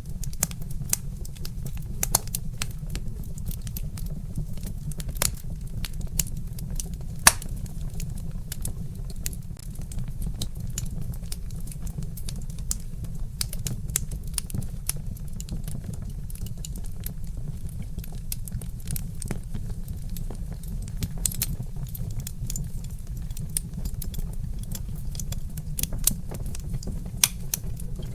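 Wood fire crackling: irregular sharp pops and snaps over a steady low rumble, with one louder pop about seven seconds in.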